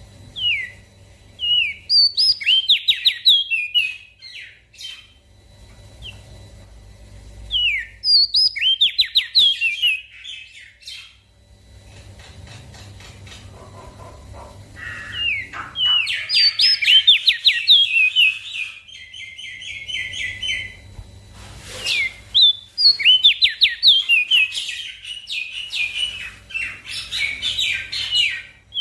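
Crested white-eye (opior jambul) singing: several bursts of rapid, high chirping trills with short pauses between them.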